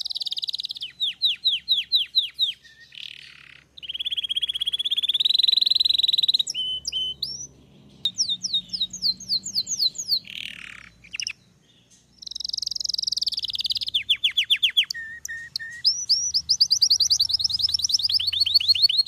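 Belgian canary singing a long song made of rapid trills and buzzy rolls, switching between phrases of fast repeated downsweeping notes, with a few short pauses between phrases.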